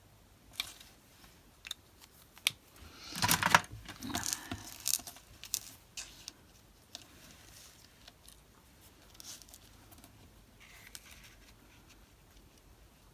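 Craft supplies handled on a desk: a few sharp clicks and taps, then a second or two of rustling and scraping about three seconds in, with lighter taps after.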